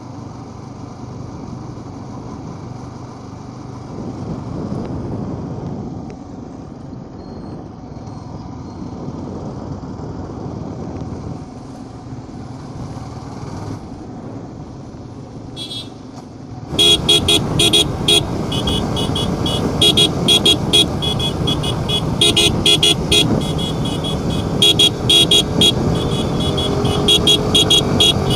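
Motorcycle riding along the road, with engine and road noise. About two-thirds of the way through it turns suddenly louder, with rapid, repeated short horn toots layered over the traffic.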